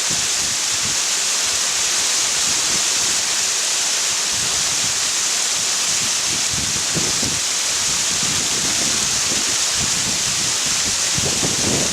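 Steady rushing of a waterfall: water spilling in many thin streams over a rock face into a pool, with some wind on the microphone.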